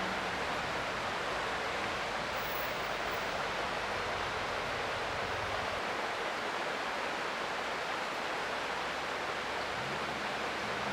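Creek water flowing steadily, an even rushing noise. A faint low drone comes in near the end.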